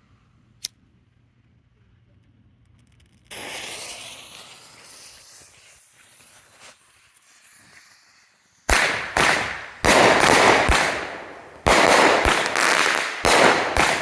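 A firework cake's fuse hisses for about five seconds after it is lit. Then the 16-shot cake starts firing: about eight loud shots in quick succession, each with a short fading tail.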